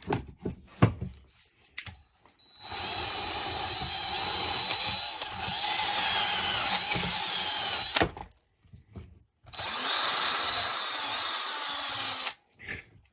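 A handheld power tool running at full speed in two long runs, about five seconds and then about three seconds, with a gap between them, after a few light clicks near the start.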